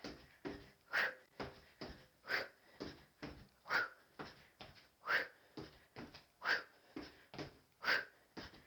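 A person breathing out sharply in a steady rhythm while kicking, a strong exhale about every second and a half with softer breaths between.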